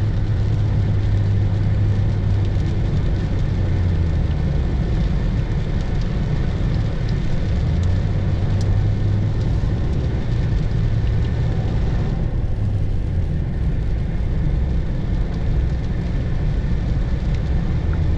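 Steady road and engine noise inside the cabin of a moving Lexus RX: a low drone with a hiss of tyres and weather over it.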